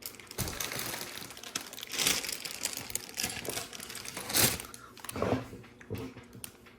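Plastic LEGO parts bag crinkling as it is handled, with a few louder surges of crinkling partway through.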